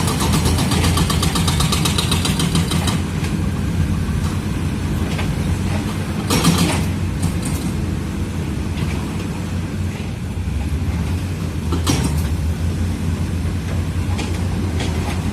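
Komatsu D85E-SS bulldozer's diesel engine running steadily, with rapid rattling for the first three seconds and a few short loud scraping or knocking bursts about halfway through and again later.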